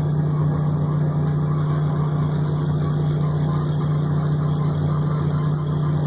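A steady, unchanging mechanical hum, like a motor running, with a strong low tone.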